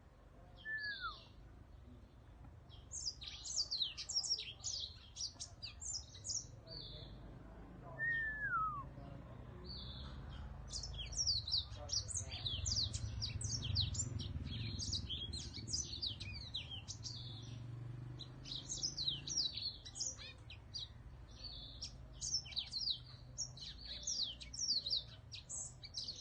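A caged songbird, kept as a "Whitetip", singing a fast, nearly continuous song of high chirps and trills, with two slurred falling whistles, one near the start and one about eight seconds in.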